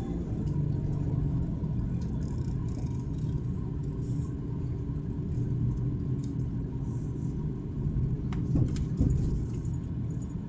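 A car moving slowly, with its engine and road rumble steady throughout; a few light clicks or knocks come about eight to nine seconds in.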